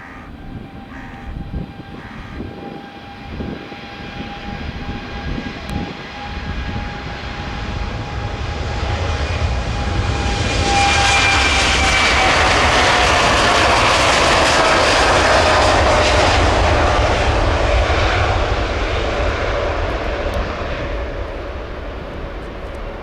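Boeing 787-9 jet taking off at takeoff thrust. The engine noise builds to its loudest about halfway through as the plane passes, and a whining tone drops in pitch as it goes by. Near the end the noise eases off.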